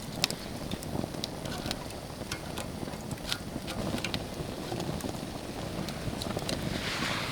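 Wood campfire crackling, with frequent sharp pops and snaps over a steady low rush.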